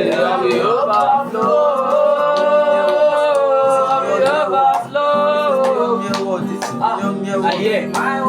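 Worship music: a voice singing long held, wordless notes over sustained keyboard chords and guitar accompaniment.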